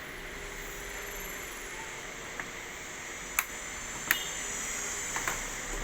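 Steady hum of running equipment with a few sharp clicks or taps, about four or five of them from two and a half seconds in.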